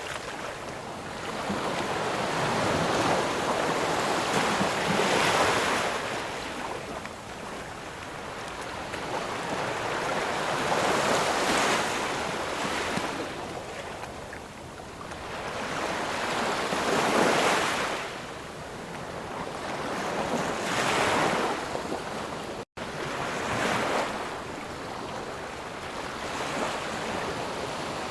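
Ocean surf: waves breaking and washing in, each one swelling and fading every five or six seconds. About two thirds of the way through there is a momentary dropout to silence.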